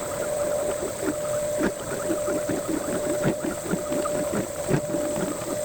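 Metal lathe running with a steady whine while a parting tool cuts off a brass bushing, with irregular scraping and chattering ticks from the cut.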